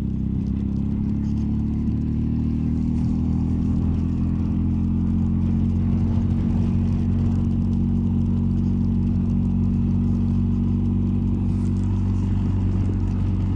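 BMW R1250GS Adventure's boxer-twin engine running while riding at a steady pace, its pitch rising slightly in the first couple of seconds and then holding even.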